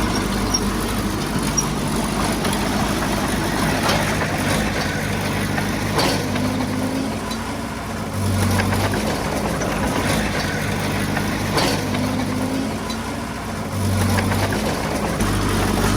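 Heavy diesel engine running under varying load, its low note shifting every few seconds, with a few sharp knocks.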